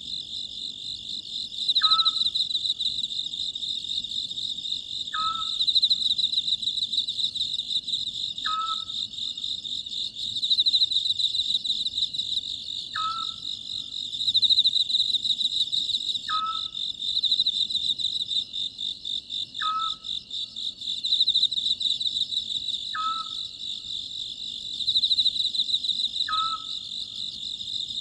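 An Oriental scops owl calling, a short low hoot repeated about every three seconds, over a steady chorus of crickets.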